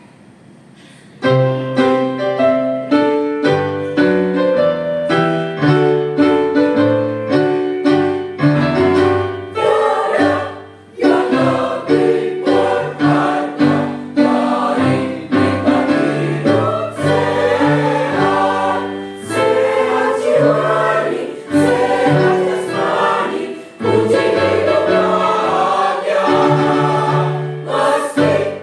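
A choir singing a march in unison and parts, with instrumental accompaniment; it starts about a second in after a brief quiet moment.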